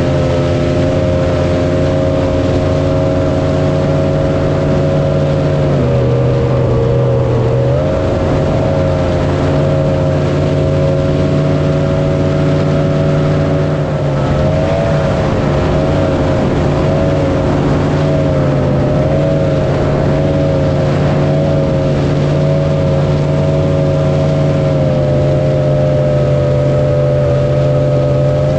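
Jet boat engine running steadily at speed. About six seconds in its pitch drops as the throttle eases, then climbs back up about two seconds later.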